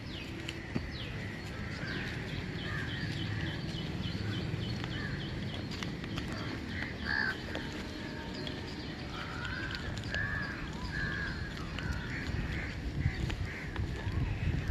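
Birds calling over and over above a low, steady rumble, with a quick run of high ticking chirps in the first few seconds.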